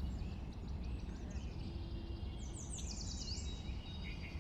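Outdoor ambience: a steady low rumble, with a small bird giving a quick run of high chirps about two and a half seconds in.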